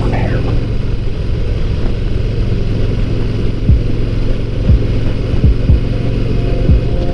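Harley-Davidson motorcycle V-twin engine running at a steady pitch, with a few brief low thumps in the second half.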